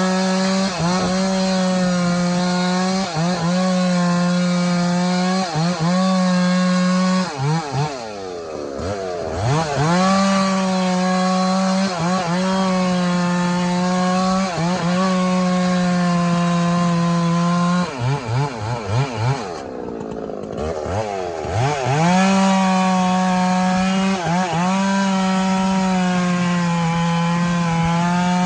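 Two-stroke chainsaw bucking firewood, held at full throttle through each cut, with quick dips in pitch between cuts. Twice it drops toward idle and revs back up, the second time with a few short throttle blips.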